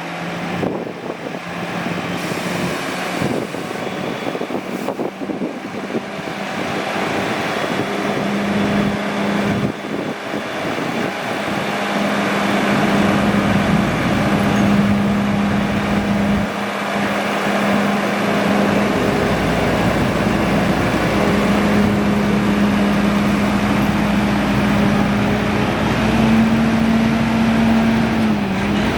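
Volvo FH500 truck's 13-litre inline-six diesel engine idling with a steady hum. It grows louder about halfway through, and its pitch rises slightly near the end.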